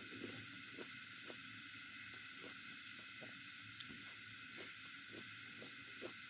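Soft, regular chewing sounds, about two a second, over steady insect chirping that pulses about three times a second with a constant high hiss.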